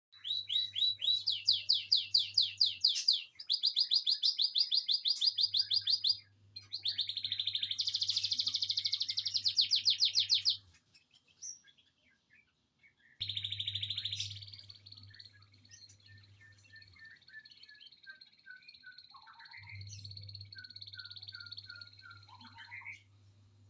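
Songbird singing fast, rattling canary-style trills in several loud bouts that start and stop abruptly. After the bouts comes a thinner, quieter high song with short runs of falling notes. A low steady hum runs underneath.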